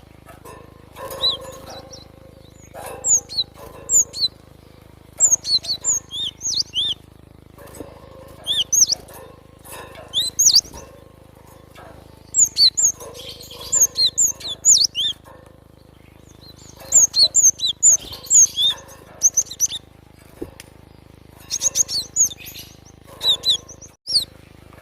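Gelatik batu (cinereous tit) calling: clusters of quick, high, sweeping chirps in bursts of a second or two, separated by short pauses.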